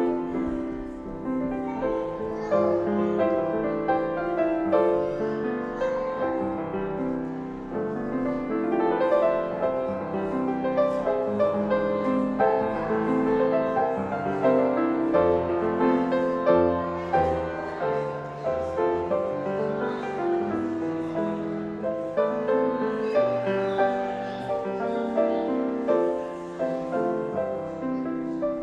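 Instrumental keyboard music: slow, held chords under a moving melody.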